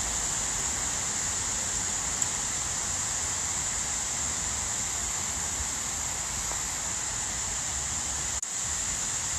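Steady hiss of light rain falling, with a constant high-pitched whine over it; it drops out for an instant about eight and a half seconds in.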